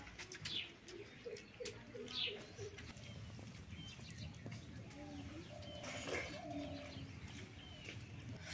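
Birds calling: a quick run of five short low notes, with a few high, falling chirps and a louder call about six seconds in, over a steady low background hum.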